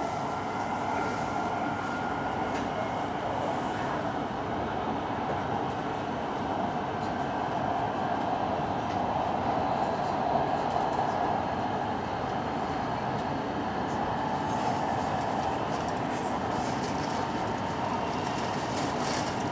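Steady running noise inside the passenger car of an E5 series Hayabusa Shinkansen: an even rush of wheels on rail and air past the car, with a faint high whine in the first couple of seconds.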